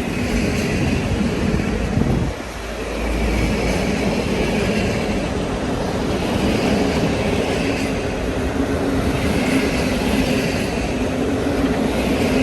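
A train running close by, a loud steady rumble of engine and rolling noise, with a brief dip about two seconds in.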